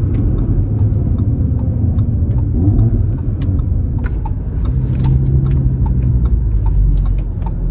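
2018 Audi RS3's turbocharged 2.5-litre five-cylinder engine running at low speed as the car rolls in to park, a steady low rumble with a run of light ticks over it.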